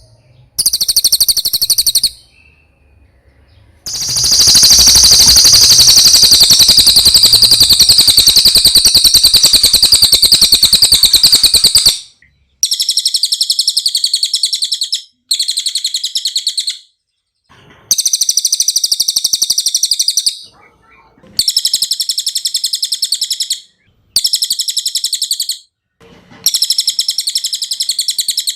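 Cililin song: fast, high, buzzing trills, one long trill of about eight seconds followed by repeated shorter bursts of two to three seconds with brief pauses between.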